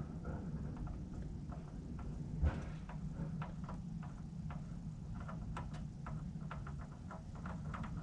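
Irregular light clicks and taps from an oil filter being worked loose and handled under the car, with one louder knock about two and a half seconds in, over a low steady hum.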